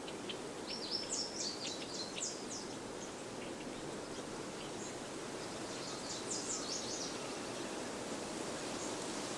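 Outdoor ambience: a steady background rush with small birds chirping in two short flurries, one near the start and one about two thirds of the way through.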